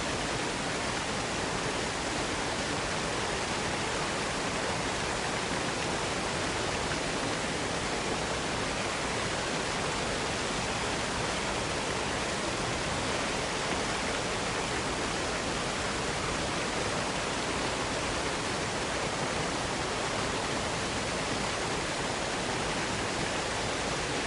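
Waterfall cascading: a steady, even rush of falling water that never changes in level.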